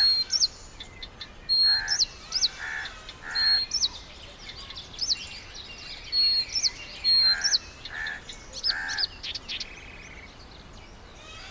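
Birds calling. A high call, a short level note followed by a quick upward sweep, repeats every second or so. Lower, harsher calls come in between, and both die away near the end.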